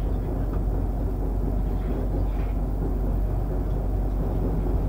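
Running noise inside a moving passenger train coach: a steady low rumble of the wheels on the rails.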